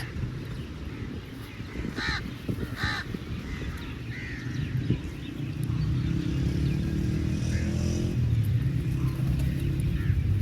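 Crow calling twice, two short caws about a second apart, over a low rumble that settles into a steady engine hum from about halfway through.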